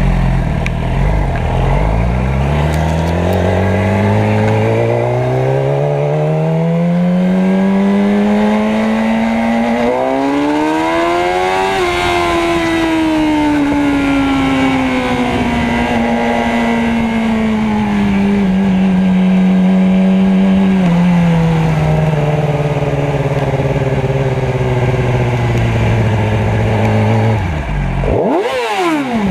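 Motorcycle engine running, its pitch climbing steadily over roughly the first twelve seconds, then slowly falling as it eases off. Near the end the sound drops out briefly and a quick rise and fall in pitch follows.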